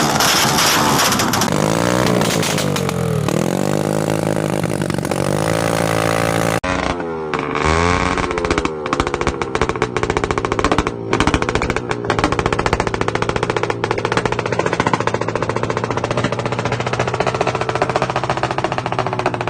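Modified Honda TMX 125 single-cylinder four-stroke engine, with a high-compression upgrade, being revved in repeated throttle blips that rise and fall in pitch, then running with a rapid, even beat.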